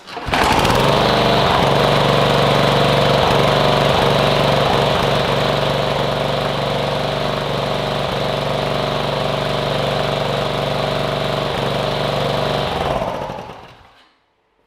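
Briggs & Stratton DOV overhead-valve lawn mower engine catching at once and running steadily, then cut off about 13 seconds in and spinning down. It now runs because the kill-switch cable has been adjusted, the simple cause of the engine's failure to restart after its first shutdown.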